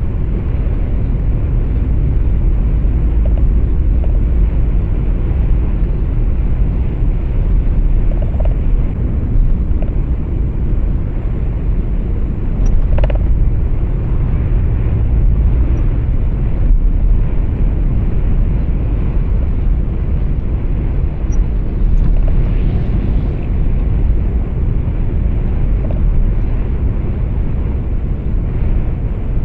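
Truck cab interior noise: a steady low rumble of engine and road, with one brief click about halfway through.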